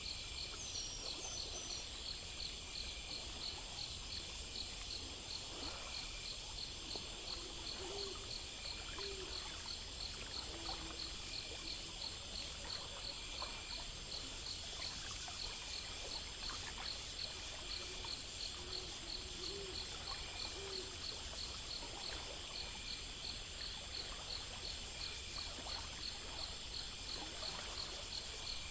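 Night insect chorus: crickets chirping in a fast, even rhythm over a steady high-pitched drone, with a low hum beneath. A few faint, short low calls come in twice, about a third of the way in and again around two-thirds.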